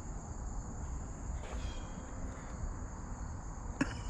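Crickets trilling steadily in one high, unbroken tone over a low rumble, with a single sharp click near the end.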